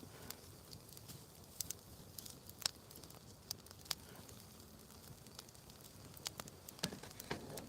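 Wood campfire crackling, with irregular sharp pops and snaps over a faint steady background.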